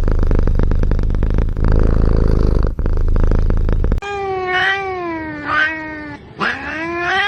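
A cat purring loudly, close up, with a rapid rumbling pulse. About four seconds in this cuts to a cat meowing: one long, wavering meow, then a second, rising one.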